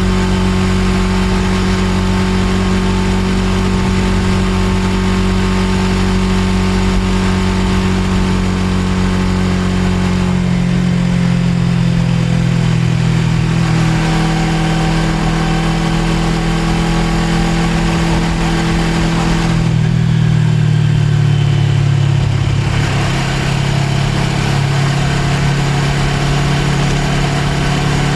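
Suzuki GSX250R's parallel-twin engine running on the move. Its note steps to a different pitch several times, about 10, 14, 20 and 23 seconds in.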